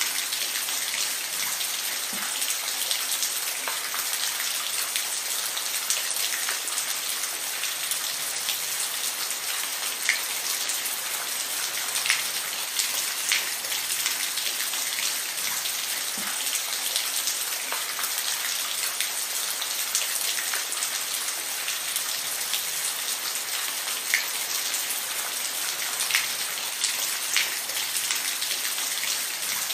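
Steady rain falling: an even hiss with scattered louder drops ticking on a hard surface.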